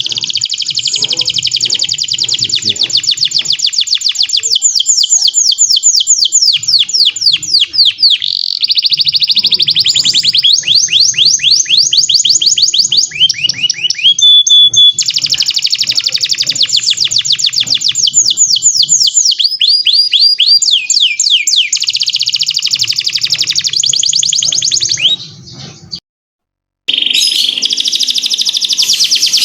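Domestic canary singing a long, loud song of fast trills and rolling runs of repeated notes, with a few rising sweeps. The song breaks off for about a second near the end, then starts again.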